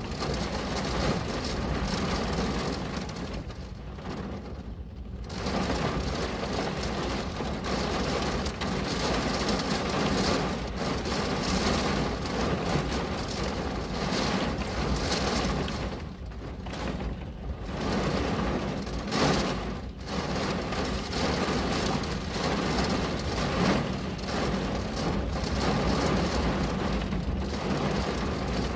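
Steady rain pattering on a window pane, a continuous even hiss that briefly thins a few times.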